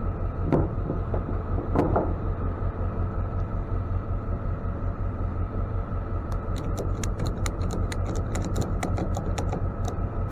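Ratchet strap being cranked tight, a fast run of sharp metal clicks starting about six seconds in, after a couple of knocks early on. A steady low engine hum runs underneath.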